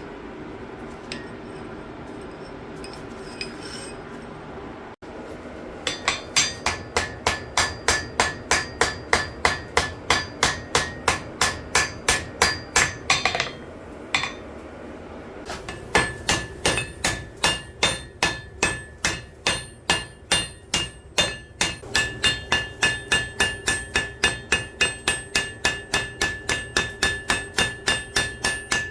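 Blacksmith's hammer forging steel on an anvil: a steady run of blows at about three a second, a short pause, then a second longer run with a bright metallic ring over the strikes.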